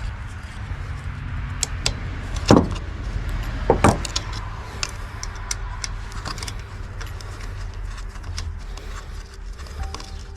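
Small metal parts and tools handled during carburetor work, with scattered clicks and clinks and two louder knocks about two and a half and four seconds in, over a low steady rumble.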